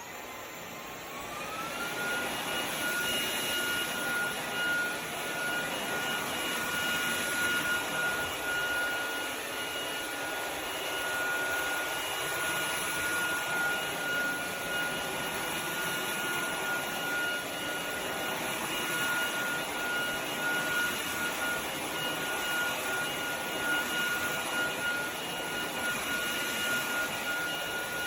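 Cordless stick vacuum switched on, its motor whine rising in pitch over the first couple of seconds as it spins up, then running at a steady high whine over a rush of air.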